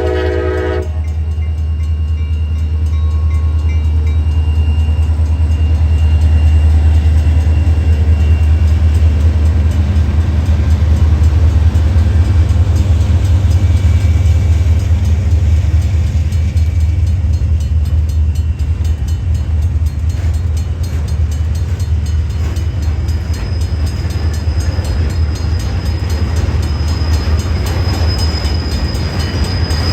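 Diesel freight train passing: the locomotive's horn cuts off about a second in, then a steady low rumble runs on. A thin, high squeal, likely from the wheels, comes in during the last few seconds.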